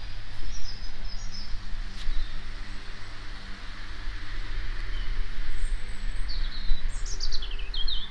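Garden birds chirping: a few short high calls about a second in and a run of quick, falling chirps near the end, over a steady low hum.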